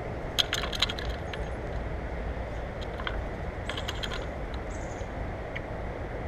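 Quick clusters of sharp clicks and taps at a bird feeder, from birds pecking and landing on it: one burst about half a second in, another near four seconds in. A steady low rumble runs underneath.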